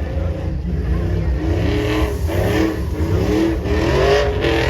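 Truck engines rumbling heavily, with repeated short revs that rise and fall in pitch from about a second in.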